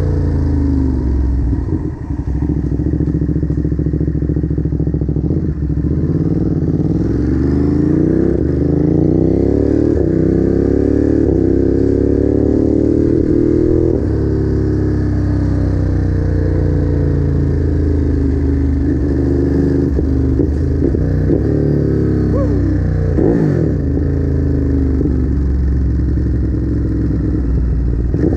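Ducati Monster's L-twin engine running under way, its pitch climbing as it pulls and then dropping back several times, like gear shifts and throttle changes while riding.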